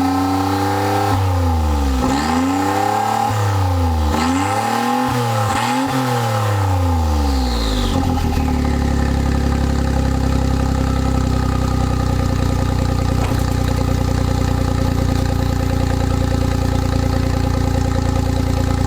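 Suzuki K6A three-cylinder engine with no muffler, blipped several times while parked, its pitch rising and falling with each rev. About eight seconds in it settles to a steady, unsilenced idle.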